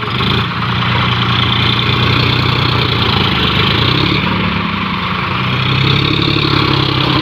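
Farm tractor's diesel engine running loudly, its pitch dipping in the middle and climbing again near the end.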